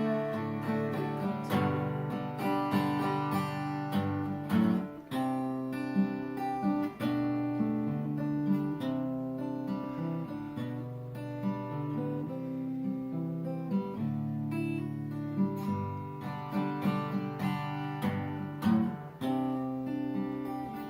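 Acoustic guitar being strummed and picked in an instrumental passage without singing, a continuous run of chords and single notes.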